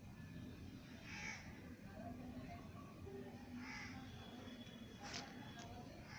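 Faint bird calling, two short harsh calls a couple of seconds apart, over a low steady background hum, with a sharp click near the end.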